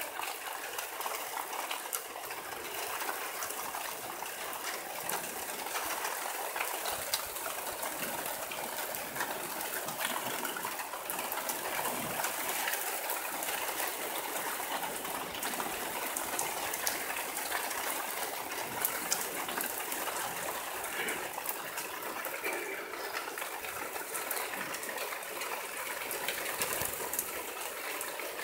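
Heavy thunderstorm rain pouring steadily, with scattered sharp ticks of drops striking nearby surfaces.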